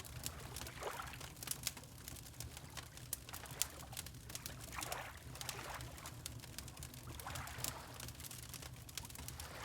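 Wood fire crackling with frequent sharp pops, over gentle water lapping that swells every few seconds, with a low steady rumble underneath.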